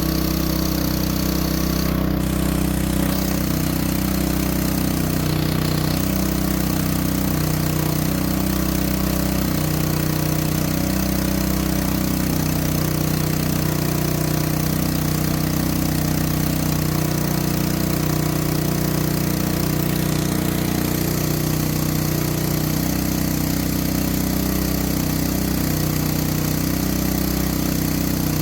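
Small petrol engine running steadily at an even speed, its intake drawing through a thunderstorm generator bubbler.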